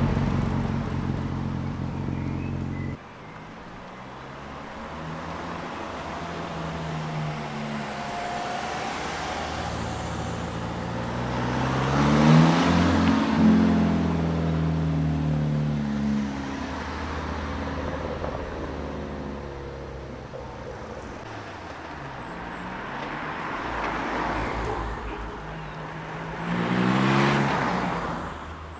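Ford performance cars driving off one after another, their engines accelerating and revving as they pass close by. First a Ford Escort RS Cosworth pulls away. Its sound cuts off abruptly after about three seconds. The loudest pass comes about halfway through, with engine notes rising and falling, and there is a short burst of revving near the end.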